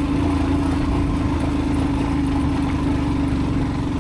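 Motorcycle engine running steadily under load with a fast, even low pulse, the bike climbing a steep, loose gravel track.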